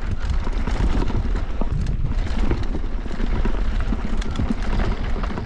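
Mountain bike descending a rough bike-park trail: tyres rolling over dirt and rock with constant rattling and knocking from the bike, under a heavy rumble of wind on the microphone.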